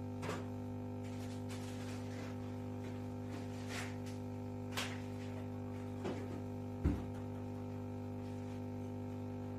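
Steady electrical hum with a few light clicks and knocks scattered through it, the loudest about seven seconds in.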